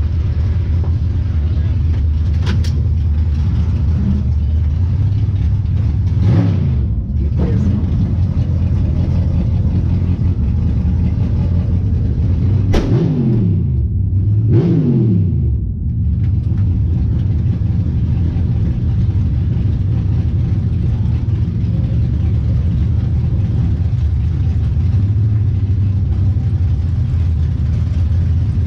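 Pro Outlaw 632 drag car's 632-cubic-inch V8 idling, heard from inside the cockpit, with three quick throttle blips about six, thirteen and fifteen seconds in.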